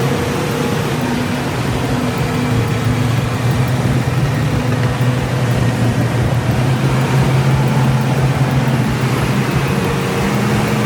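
Heavy diesel engines working hard under load, a loud, steady low drone, as a bulldozer pulls a heavy truck through quicksand.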